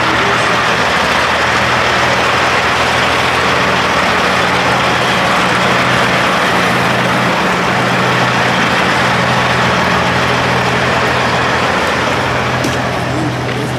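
Semi truck's diesel engine running steadily at idle close by, easing off slightly near the end.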